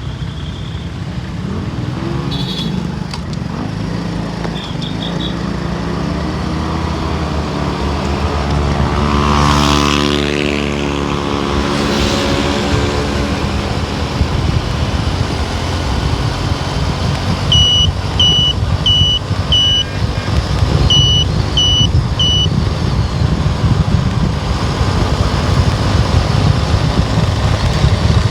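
Steady low rumble of engine and tyres from a car being driven on the road. About ten seconds in, a passing vehicle's engine swells and its pitch rises and then falls. Later come two quick runs of short, high electronic beeps, four and then three.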